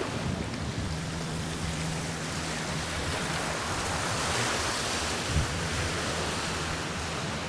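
Sea waves washing on the shore, a steady hiss of surf that swells about halfway through. A steady low hum runs underneath, with a brief low knock near the end.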